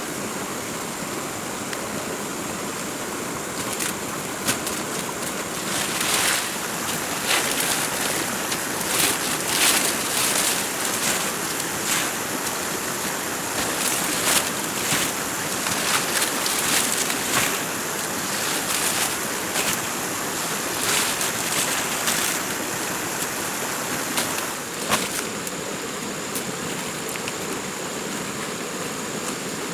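Steady rushing noise like running water or wind, with many short clicks and knocks scattered through the middle stretch.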